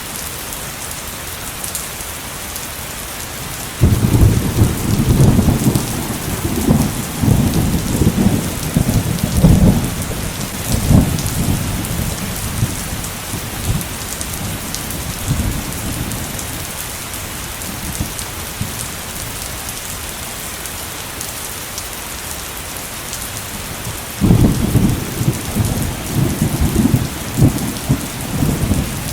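Heavy rain falling steadily, with two loud rolls of thunder. The first breaks suddenly about four seconds in and rumbles for about ten seconds before dying away, and the second starts near the end.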